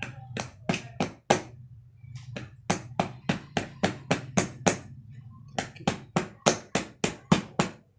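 A hammer tapping a part into place on an electric fan motor being reassembled: sharp taps at about four a second, in three runs broken by short pauses.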